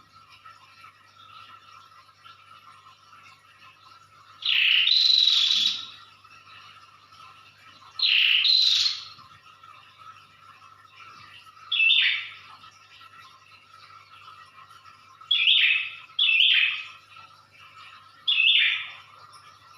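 Prenjak (prinia) singing loudly in short, sharp bursts, six phrases spaced a few seconds apart, each about a second long with the longest near the start. The bird is in full, forceful song ("ngedor").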